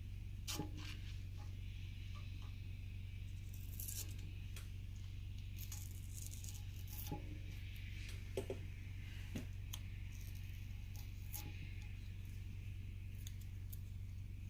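Masking tape being peeled off a freshly painted valve cover: short, faint tearing and crackling bursts with small clicks, here and there, over a steady low hum.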